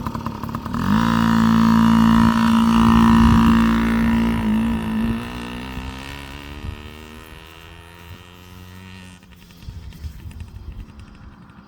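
Yamaha PW50's small two-stroke single-cylinder engine revving up about a second in and running steadily at speed, then fading out over several seconds and dropping away near the end.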